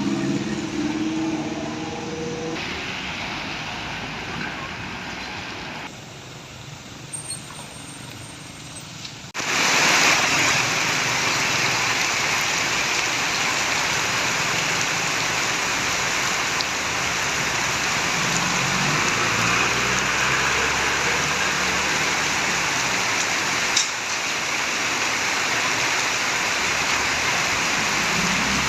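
Heavy rain and trucks on a wet road: an engine hum near the start, then the steady noise of rain and tyre spray, which turns suddenly louder about nine seconds in, with a truck engine rising through it again in the second half.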